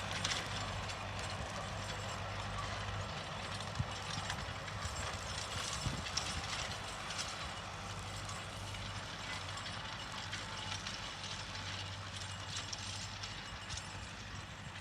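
Tractor running while mowing grass: a steady low engine hum under a clattering, rattling mechanical noise with scattered clicks.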